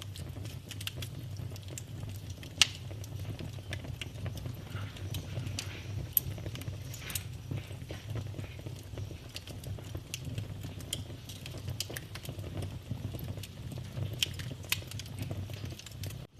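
Wood fire crackling in a fireplace: irregular pops and snaps over a steady low rumble, the sharpest pop about two and a half seconds in.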